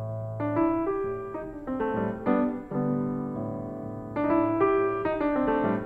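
Background piano music: notes and chords played at a gentle pace, with a held low note at the start.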